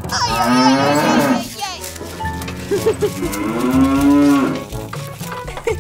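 Two long cow moos, one near the start and one in the middle, over background music.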